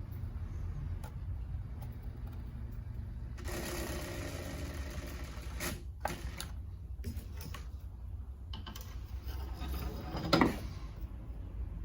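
A small motor whirring over a low hum, with several sharp clicks and a loud knock about ten seconds in.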